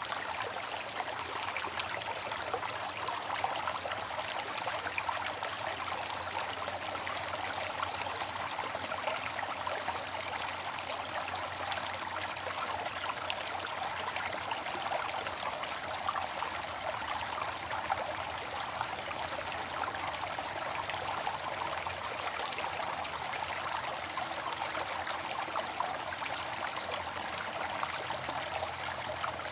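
Water fountain splashing and trickling steadily, an even stream of falling water with no pauses.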